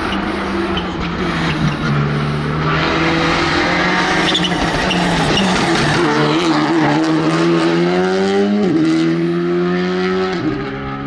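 Rally car engine accelerating hard, its pitch climbing, then dropping sharply at a quick upshift about nine seconds in and again near the end, over tyre and road noise.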